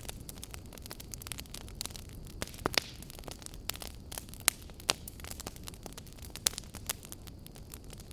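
Wood fire burning: a steady low rush of flames with irregular crackles and sharp pops from the burning logs, a few louder snaps scattered through.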